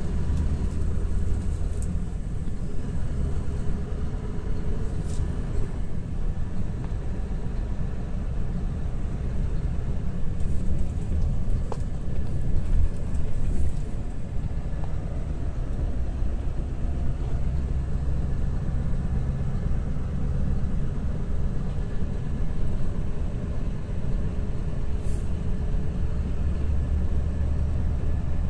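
Scania R620 truck's V8 diesel engine running steadily on a test drive, a deep continuous rumble mixed with road noise and a faint tone that drifts slightly in pitch.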